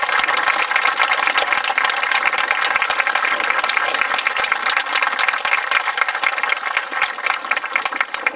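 Audience clapping: a dense, steady patter of many hands that eases off near the end.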